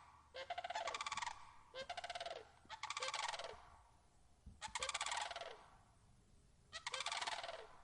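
Bird calling: five rolling, rattling calls about a second long, spaced by short pauses.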